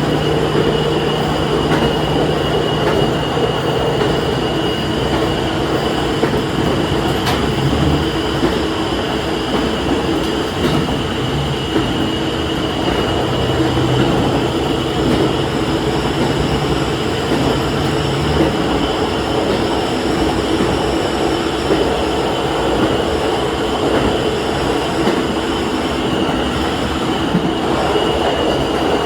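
Diesel railcar running along the line, heard from the front of the train: steady rumble of wheels on rail with a steady high whine. A low engine note drops away about 18 seconds in.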